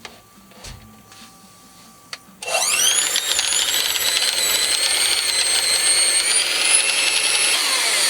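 A small electric kitchen appliance motor spins up with a rising whine about two and a half seconds in, then runs as a loud steady whine, mashing boiled cauliflower with cream cheese and garlic. Near the end its pitch starts to fall as it winds down.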